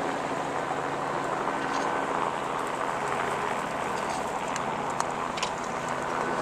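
Steady rushing outdoor noise, with a low hum underneath and a few faint clicks in the second half.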